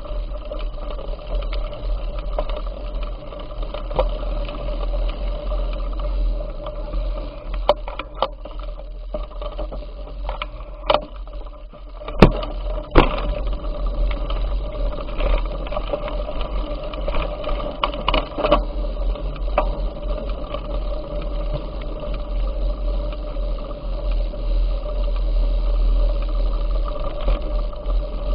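Bicycle ride noise: wind rumbling on the microphone over a steady hum and rattle from the moving bike, with a few sharp knocks about a third of the way in, the loudest two close together.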